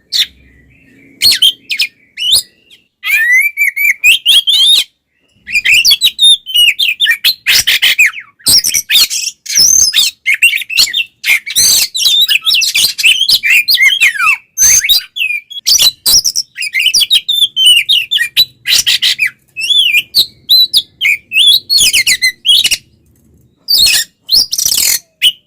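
Oriental magpie-robin (kacer) singing loudly in fast, varied phrases of gliding whistles mixed with harsh, scratchy notes, broken by a few short pauses. This is the excited, aggressive 'tarung' (fighting) song that keepers play to provoke other kacer.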